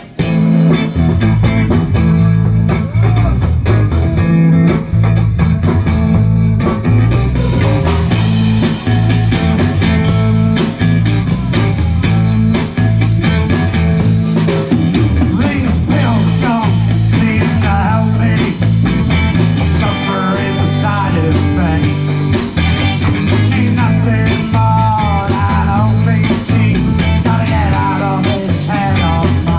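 Live rock band starting a song: drum kit, bass and electric guitar playing together, loud and steady. In the second half a lead melody wavers up and down in pitch over the band.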